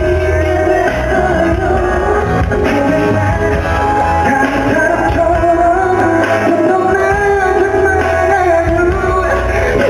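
Live pop-rock concert music with a male voice singing over a band, recorded from the audience.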